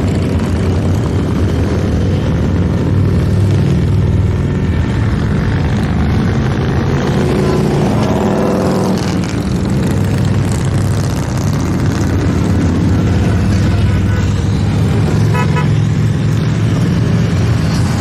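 A steady stream of motorcycles riding past in a parade, their engines running together loudly without a break, with one engine's pitch sweeping as it passes about halfway through. A horn beeps briefly about three-quarters of the way in.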